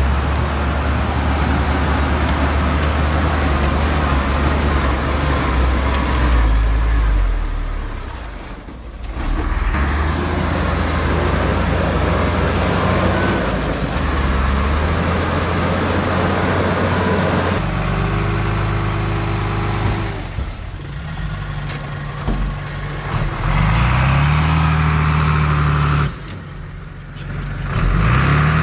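Diesel engines of heavy earthmoving machinery running and working, with the sound changing abruptly several times. About three-quarters of the way through, an engine revs up with a rising tone.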